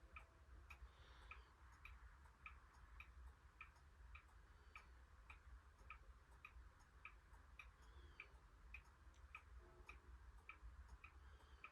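SMC A52 ceiling fan running quietly, with a faint, even ticking about three times a second over a low steady hum.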